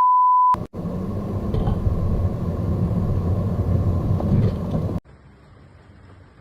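A loud, steady one-pitch censor bleep cuts off about half a second in. After it comes a loud, steady low rumble for about four seconds, which stops abruptly and gives way to quiet room tone.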